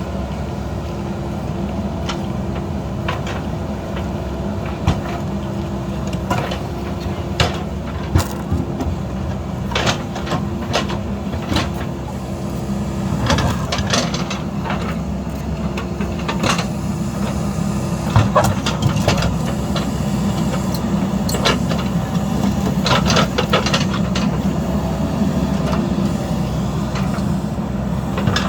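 JCB backhoe loader's diesel engine running steadily under work, with many short sharp knocks and clatters scattered over it, more frequent and a little louder in the second half.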